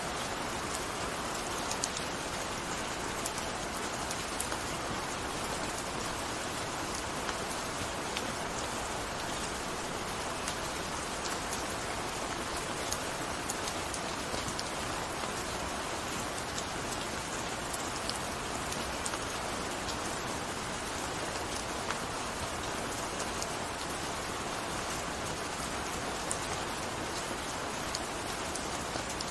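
Gentle rain falling steadily, with individual drops ticking here and there over an even wash of rainfall.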